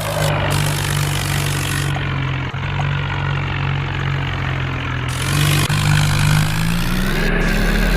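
Tractor engine running steady, then its pitch rising over the last few seconds as it revs up.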